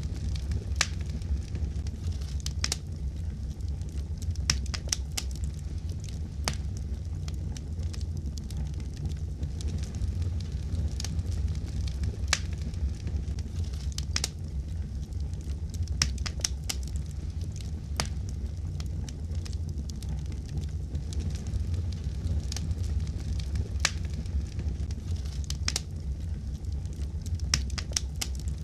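Fireplace fire crackling: irregular sharp pops and snaps over a steady low rumble of flames.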